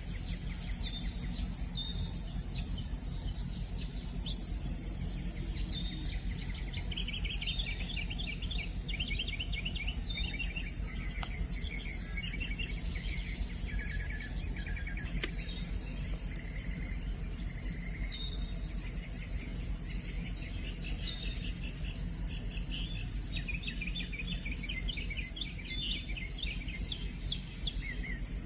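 Insect chorus: a high trill that keeps going in stretches of a second or two over a constant higher buzz, typical of crickets or katydids. A songbird breaks in with quick runs of chirps in the middle and again near the end.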